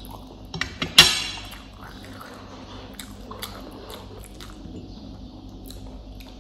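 A person chewing food close to the microphone, with scattered mouth clicks and one loud, sharp crunch or knock about a second in.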